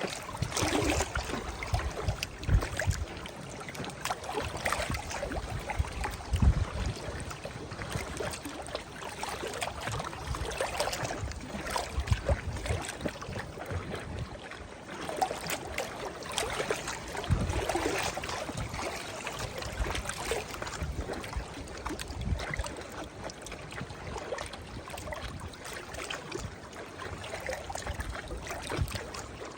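Small river waves lapping and splashing at the water's edge, coming in irregular surges every second or two, with low rumbling thumps beneath.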